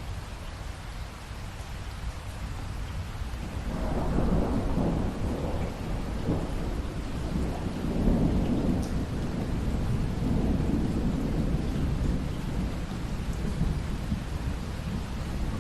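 Steady rain with a long roll of thunder that builds about four seconds in, rumbles on in waves, and fades toward the end.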